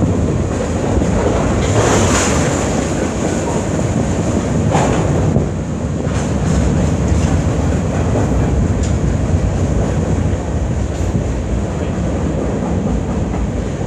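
Freight train cars rolling past on the rails: a steady rumble of wheels with occasional short clacks, and wind buffeting the microphone.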